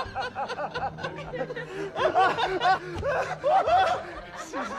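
A man laughing hard: a long run of repeated laughs, each rising and falling in pitch.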